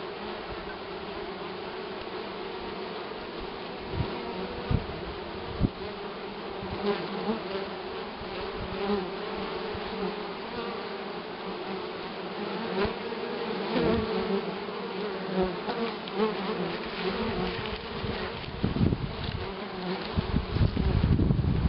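A honeybee colony at a woven-straw Sun Hive, a hanging basket, buzzing in a steady dense hum close to the microphone. A few sharp ticks come through, and a low rumble rises near the end.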